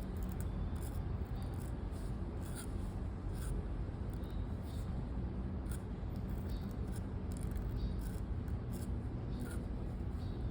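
A pen nib scratching across paper in short, irregular strokes as someone writes, over a steady low background rumble.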